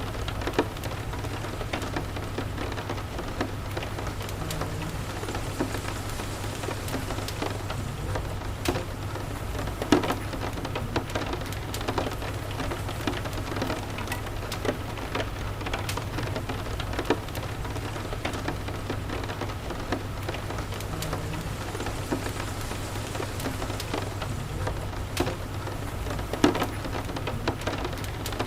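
Steady rain mixed with the crackle of a wood fire: sharp pops and snaps scattered throughout, the loudest about ten seconds in and again near the end, over a steady low rumble.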